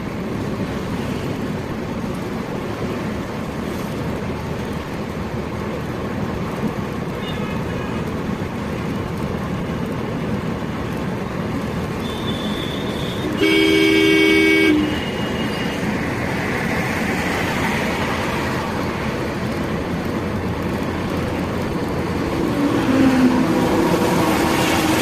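Steady road and engine noise of a car on the move. A vehicle horn honks once, about halfway through, for about a second, with fainter tones here and there.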